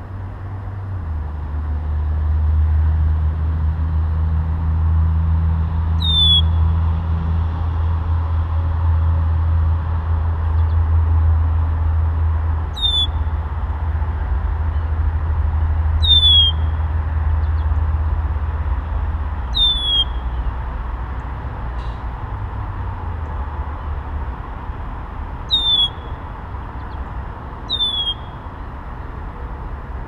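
A songbird gives a short, down-slurred whistled call six times, a few seconds apart. Beneath it is a low steady rumble that eases off about two-thirds of the way through.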